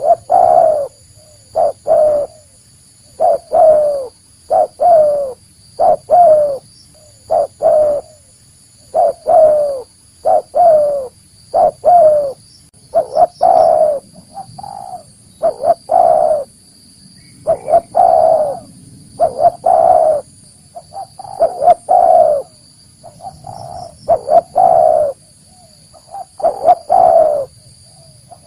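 Spotted dove (tekukur) cooing over and over: short, loud coos in groups of two or three with brief pauses between, repeated steadily. This is the bird's real call, played as a lure to bring wild doves in.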